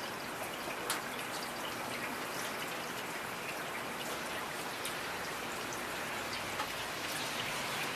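Steady rain falling, with the separate taps of individual raindrops hitting a surface scattered through it and one sharper drop about a second in.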